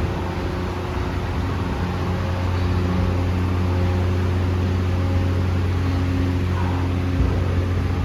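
Loud, steady low hum of running machinery, with several steady tones held over a noisy background. It grows a little louder about two and a half seconds in.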